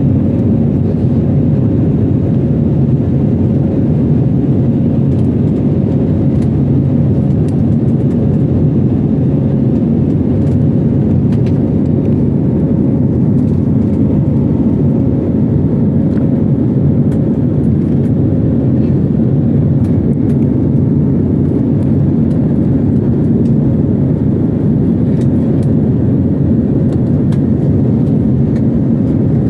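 Steady drone of an airliner's engines and rushing air during the climb after take-off, muffled and deep, with a faint steady hum held throughout.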